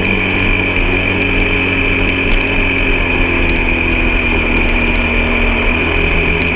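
Off-road vehicle's engine running steadily while driving, its pitch drifting slightly, with scattered sharp knocks and rattles throughout.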